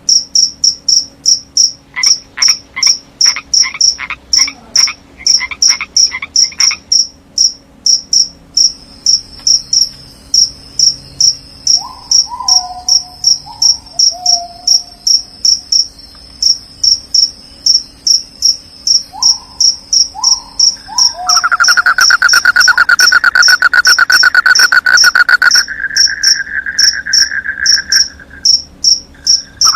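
Night chorus of crickets and frogs: a cricket chirping in high, regular pulses, about three a second, with frogs giving a few short croaks around the middle. A loud, rapid trill joins about two-thirds of the way in and becomes the loudest sound.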